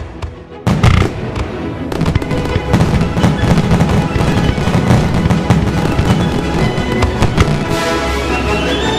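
Fireworks going off in a dense barrage of rapid cracks and bangs, starting suddenly under a second in, with music playing over them.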